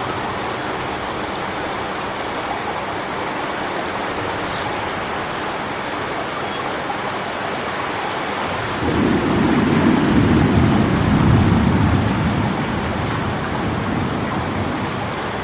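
Strong wind rushing through coconut palm fronds, a steady hiss; a little past halfway a low rumble of thunder swells, lasts about four seconds and fades.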